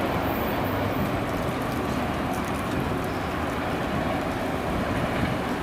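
Train passing close by: a steady rumble of steel wheels on the rails, with light clicks over it.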